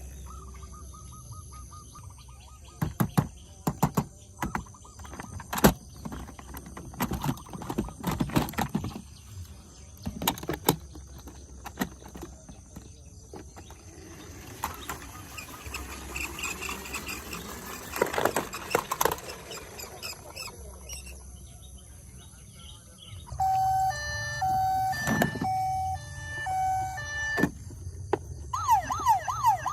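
Hard plastic toy vehicles clicking and knocking as they are handled. Later comes a short electronic beeping tune from a battery toy, and near the end the toy's fast up-and-down electronic siren.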